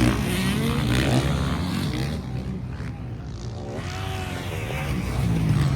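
Motocross bikes' engines revving on the track, the pitch rising and falling with the throttle. The sound fades about halfway through and builds again toward the end as bikes come closer.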